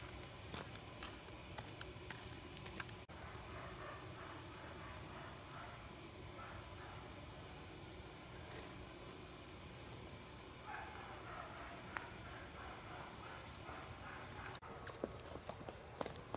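Insects droning steadily at a high pitch in the countryside, with short high chirps repeating through it. There are a few faint clicks and a brief stretch of rustling.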